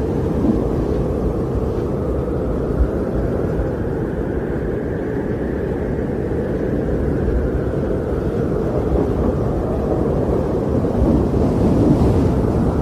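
Wind blowing with a deep, steady rumble, swelling slowly through the middle and gusting louder near the end.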